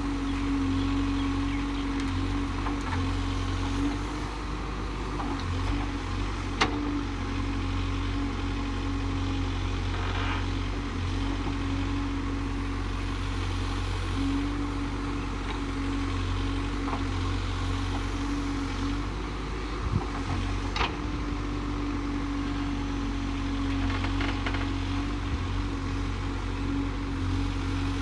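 Case backhoe loader's diesel engine running steadily with a constant hum, with a few sharp knocks, one about a quarter of the way in and two close together a little past the middle.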